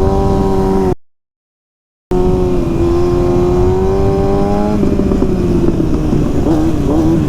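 Stunt motorcycle engine running at a steady speed, held on a throttle lock, with a complete dropout of about a second early on. Near the end its revs waver up and down as it is ridden for a trick.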